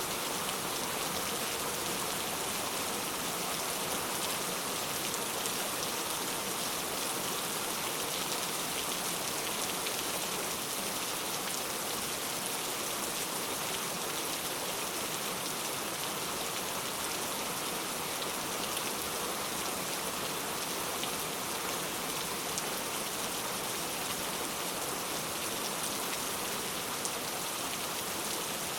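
Steady rainfall, an even hiss of rain with many small drops pattering on a surface.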